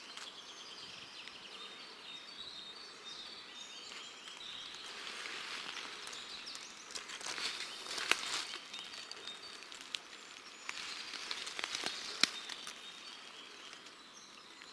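Small songbirds chirping and singing in woodland, with rustling of footsteps through leaves and undergrowth in two stretches midway and later, and a couple of sharp clicks like snapping twigs.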